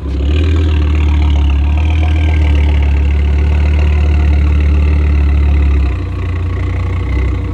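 Tuned VW Golf 7R fitted with an Audi RS3 2.5-litre turbocharged five-cylinder engine, idling through its quad exhaust with a deep, steady drone. The drone drops in level about six seconds in.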